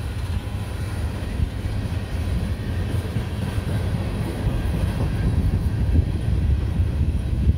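Empty steel coal hopper cars of a freight train rolling past: a steady low rumble of wheels on the rails, with occasional knocks.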